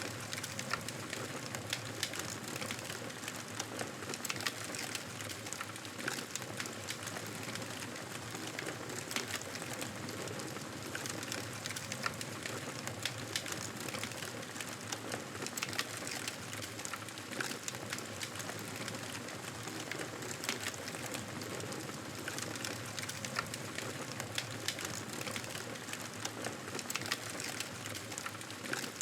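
Wood fire crackling, with frequent small sharp pops and snaps over a steady hiss.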